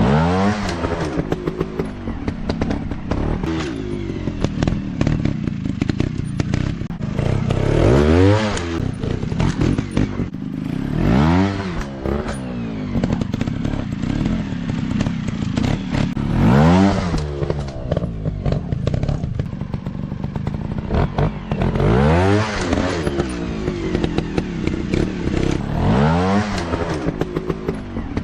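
Dirt bike engines revving up and down on a motocross practice track, the pitch climbing and falling about six times as riders accelerate and back off, with some clatter and scraping.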